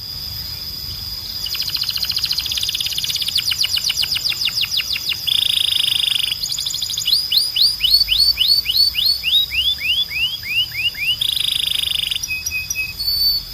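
Belgian canary singing: fast buzzy trills and runs of quick repeated sweeping notes, about five a second, changing phrase every second or two.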